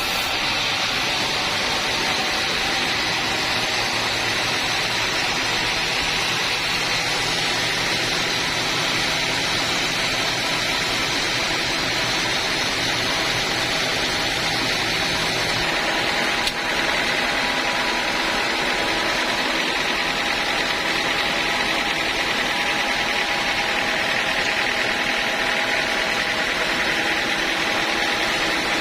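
Band sawmill running steadily, a constant machine noise with a few steady tones. A brief click about sixteen seconds in.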